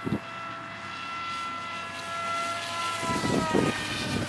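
Electric motor and propeller of a Dynam Hawk Sky RC plane in flight, a steady whine that drops a little in pitch partway through. Wind buffets the microphone near the end.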